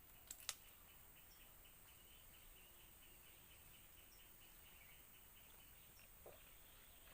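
Faint forest ambience: a fast, even insect chirping runs throughout, with a faint high call repeating every couple of seconds. Two sharp clicks come about half a second in, and a soft knock a little after six seconds.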